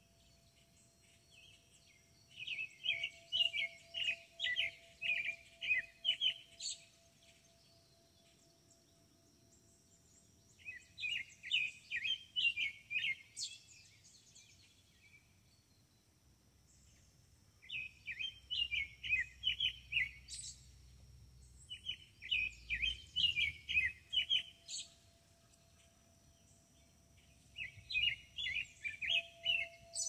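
A songbird singing five loud phrases, each a quick run of about ten repeated chirping notes lasting two to three seconds, with pauses of several seconds between them.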